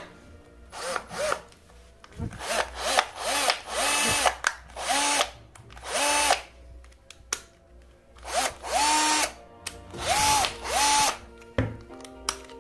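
Bosch GSR 120-LI cordless drill driver's motor run in short trigger pulls, about a dozen times, each a whine that spins up, holds briefly and winds down. It is a test run of the repaired drill.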